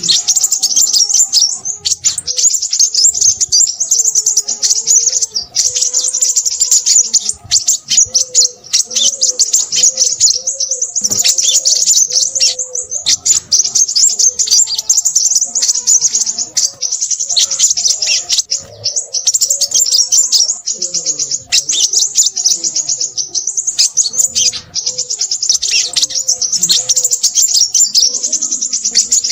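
Crimson sunbird singing noisily: a rapid, continuous stream of high, thin chirps and twitters, with a fainter, lower wavering call underneath.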